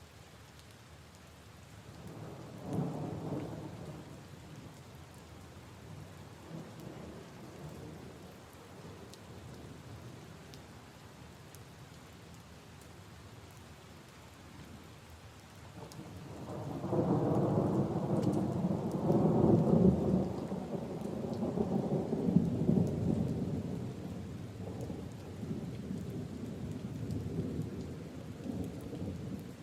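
Steady rain falling on puddles and leaves, with rolling thunder: a short rumble about three seconds in, then a long, louder roll starting a little past halfway that peaks and slowly fades.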